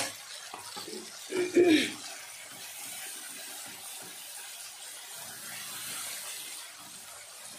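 Tomato masala sizzling steadily in hot oil in a kadai, with a spatula scraping and stirring through it from about two seconds in.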